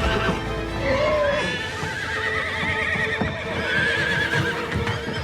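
Horse whinnying in wavering calls, the longest from about two seconds in, with hooves clattering, over background music.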